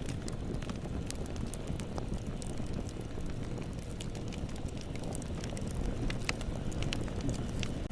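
Bonfire burning: a steady low rumble of flames with frequent sharp crackles and pops of burning wood.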